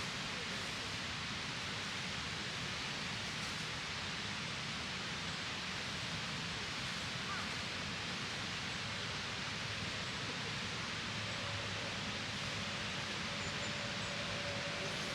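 Steady, even rushing noise outdoors with no clear events, with a faint thin tone near the end.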